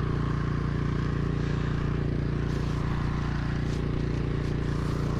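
Troy-Bilt snowblower engine running steadily at constant speed, with a steady hiss over it.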